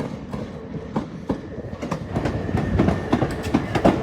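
Train running on the rails, its wheels clattering over rail joints in an uneven run of knocks over a low rumble. The knocks grow louder and come closer together from about halfway through, as a faint steady whine joins in.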